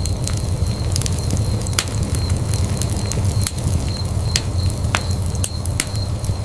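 Wood fire crackling in a fireplace: a steady low rumble of burning with about a dozen irregular sharp pops and snaps.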